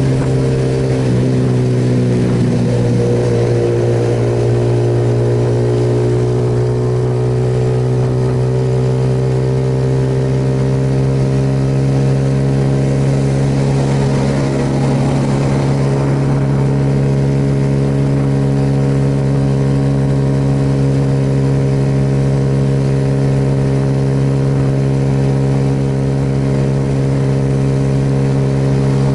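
Suzuki Yes motorcycle's single-cylinder engine running at a steady speed, its note easing slightly lower in the first few seconds and then holding even.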